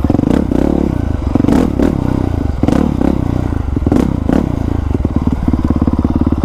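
Honda CRF450R single-cylinder four-stroke engine, fitted with a new aftermarket exhaust, running at uneven throttle. Several sharp knocks and clattering sounds are heard over it.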